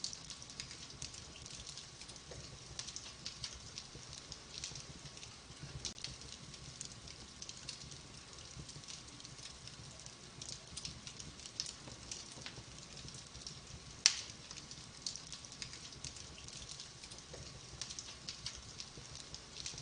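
Wood fire in a fireplace crackling, with frequent small sharp pops over a low steady rush and one loud pop about fourteen seconds in.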